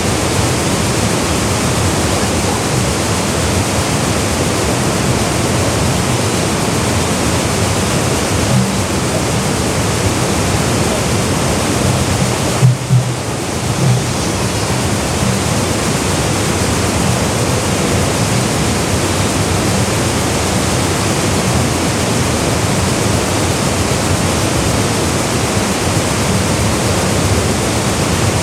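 Waterfall pouring into a gorge pool: a loud, steady rush of water. A brief thump comes about halfway through.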